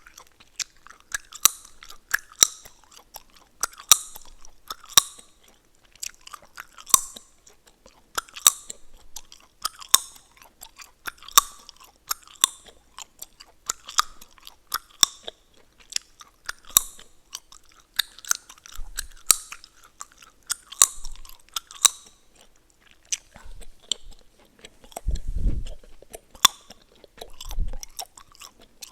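Gum chewing close to the microphone: wet, smacking chews about once every second or so, with sharp cracking snaps of the gum. The chewing slows near the end, where a brief low rumble comes in.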